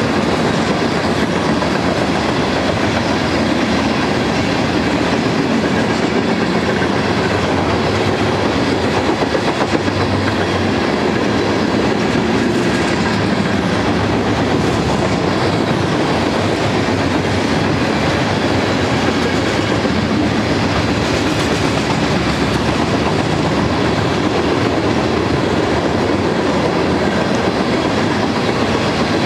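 A long string of loaded coal cars rolling past, steel wheels running over the rails in a steady, unbroken rumble.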